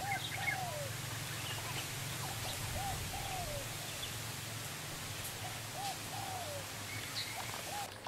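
A bird calling repeatedly, short rising-and-falling notes mostly given in pairs about every three seconds, with fainter high chirps from other birds and a steady low hum underneath.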